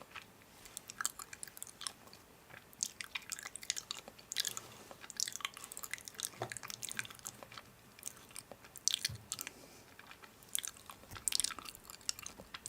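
A person chewing and biting food close to the microphone: irregular clusters of crunchy, moist clicks and crackles.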